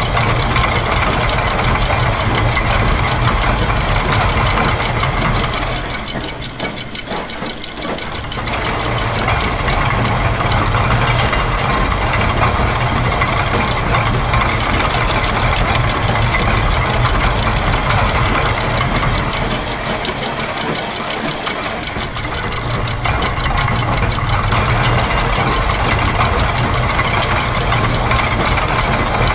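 A layered mix of looped factory machine sounds (gears, a press, clockwork, a ratchet, a sewing machine) forming a dense, steady mechanical din. It thins out briefly twice, about six seconds in and again a little past twenty seconds, as some loops drop out.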